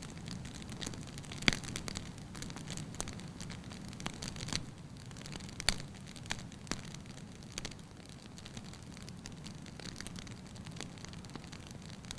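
Wood fire burning in a fireplace: a steady low rush of flame with irregular crackles and sharp pops from the burning logs, the loudest pops about a second and a half in and around the middle.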